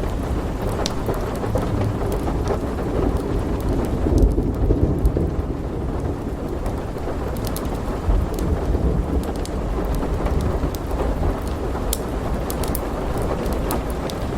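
Thunderstorm ambience: steady heavy rain with deep rumbling thunder that swells about four seconds in and rolls on. Sharp little crackles and ticks are scattered throughout.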